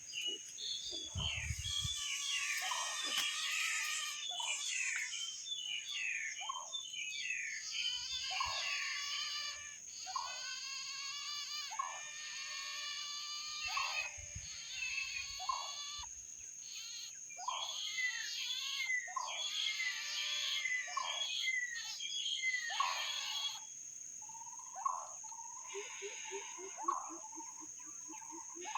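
Green-billed Malkoha chicks in the nest calling over and over with short, buzzy, harsh begging calls, the sound of hungry nestlings asking to be fed. A steady high insect drone runs underneath, and near the end a rapid series of low pulsing notes comes in.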